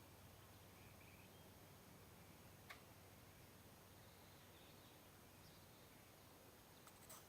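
Near silence: faint outdoor ambience with a few faint bird chirps and two soft clicks.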